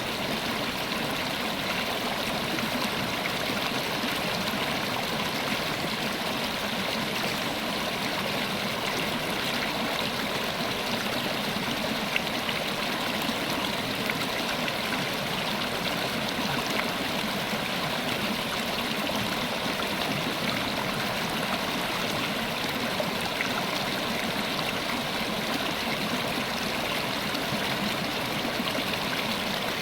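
River water flowing and babbling over rocks, a steady rushing with small splashes and gurgles throughout.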